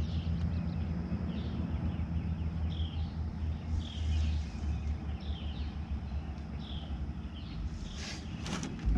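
A bird calling over and over, a short chirp about once a second, over a steady low rumble. A few sharp clicks and a knock come near the end.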